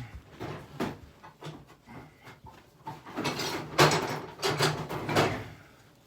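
Irregular knocks and clatter of hard objects being handled and set down, busiest in the second half.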